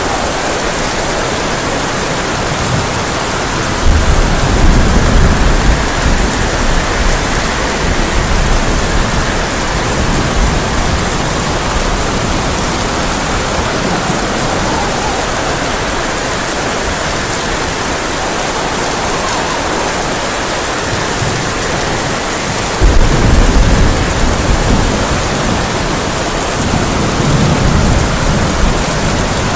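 Heavy rain drumming steadily on a tin roof, with thunder rumbling about four seconds in and again louder about 23 seconds in, and a weaker rumble near the end.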